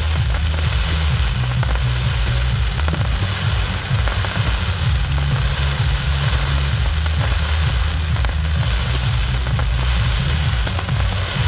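Fireworks going off in a continuous crackling barrage, with a heavy low rumble underneath throughout.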